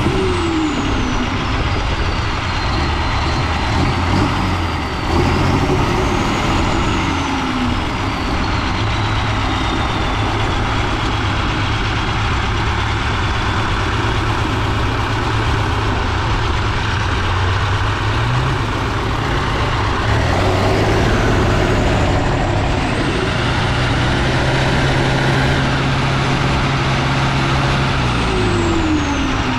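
Heavy off-road trial truck's diesel engine labouring under load, its revs stepping up and down, with a high whine that rises and falls along with it.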